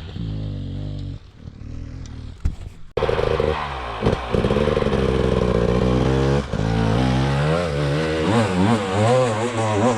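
Dirt bike engine revving, its pitch rising and falling with the throttle. It drops back for a moment, then comes in suddenly louder about three seconds in.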